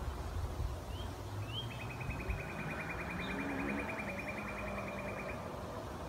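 A small songbird gives two short rising chirps, then a fast, even trill of about ten notes a second that lasts nearly four seconds. A steady low rumble of wind or distant traffic runs underneath.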